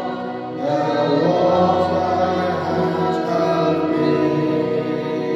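Several voices singing a gospel song together over sustained, held instrumental chords.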